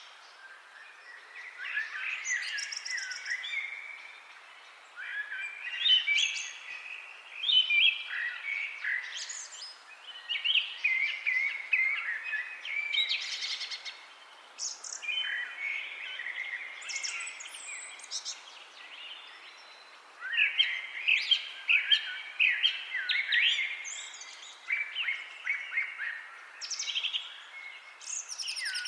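Several songbirds singing and chirping over each other: rapid trills and chirpy phrases in quick succession, with brief lulls around 4–5 s and 18–20 s.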